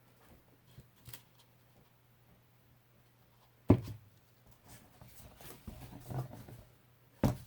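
Quiet room with a steady low hum. A sharp knock comes about halfway through, then soft handling and rustling, and two more knocks near the end.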